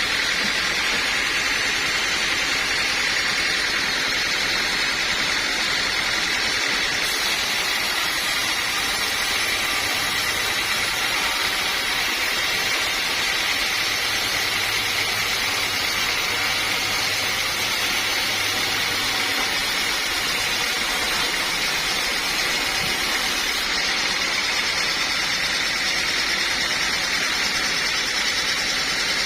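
Sawmill machinery running steadily, a continuous mechanical noise with an even high hum that stays the same throughout.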